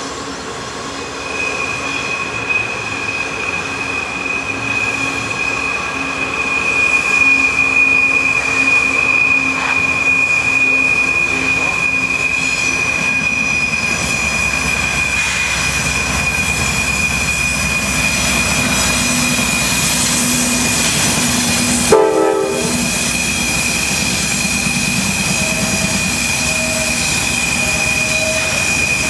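Norfolk Southern diesel locomotives hauling a train around a sharp curve: a steady high-pitched wheel squeal over the rumble of the engines, which grows louder in the first several seconds as the locomotives draw near.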